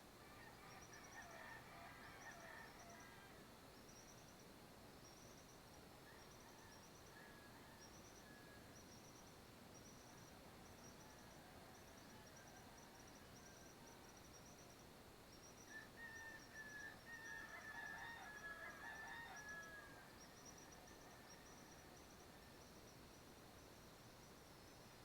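Faint countryside dawn ambience: a thin high chirp repeats steadily about one and a half times a second. Louder bird calls come in twice, about a second in and again for several seconds past the middle.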